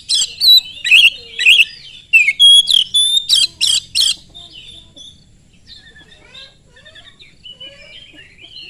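Oriental magpie-robin (kacer) in full, vigorous song. A loud run of sharp, piercing whistles and rapid harsh notes lasts about four seconds, then gives way to quieter, varied twittering.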